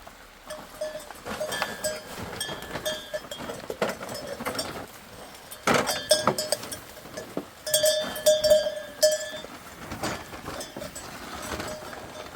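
Livestock bells clanking on and off as goats or sheep move about, loudest a little past the middle, with scattered scuffs and knocks and a sharp knock about six seconds in.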